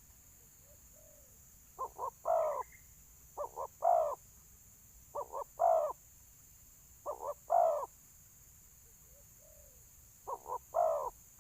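Spotted dove giving its territorial challenge call: five phrases, each two short coos followed by a longer falling coo, repeating every two seconds or so, with a gap near the end. A faint, softer coo comes twice between phrases.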